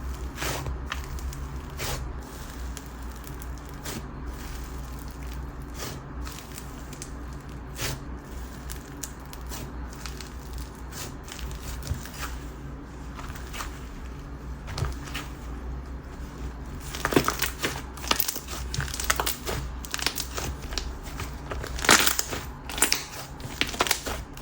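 Whipped-texture (whip) slime being squeezed, stretched and folded by hand, making many small crackly pops and squelches, denser and louder about two-thirds of the way through.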